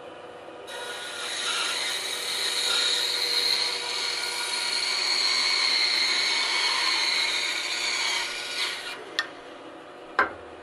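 Bandsaw blade cutting through a thick wooden 4x4 block, a loud steady hiss over the saw's running hum that starts just under a second in and stops near the end. Two short sharp clicks follow, about a second apart.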